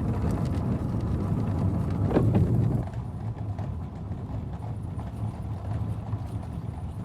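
Four-horse stagecoach on the move: hooves clip-clopping over a heavy rumble of the coach. A louder knock comes about two seconds in, and just before three seconds the rumble falls away abruptly, leaving lighter hoofbeats.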